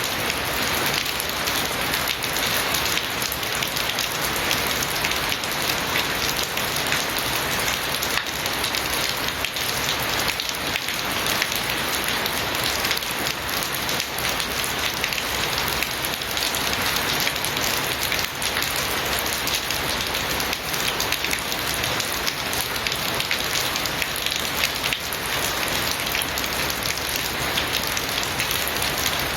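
Steady heavy rain falling and pattering on surfaces, a dense continuous hiss of many drops.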